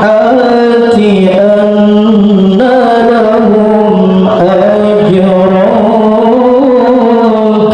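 A male qari reciting the Quran in melodic tilawah style: one voice holding long, ornamented notes that waver and slide in pitch.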